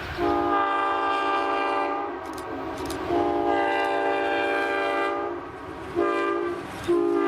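Diesel locomotive air horn sounding a chord of several tones in the grade-crossing pattern: two long blasts, a short one, then a long one that holds on.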